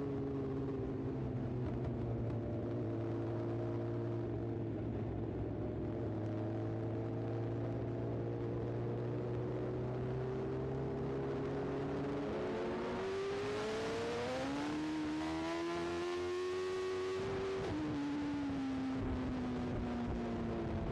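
BMW S1000RR inline-four engine running under way, its pitch slowly sinking, then rising steadily for several seconds as it revs up about two-thirds of the way in, before dropping sharply as the throttle comes off or it shifts gear.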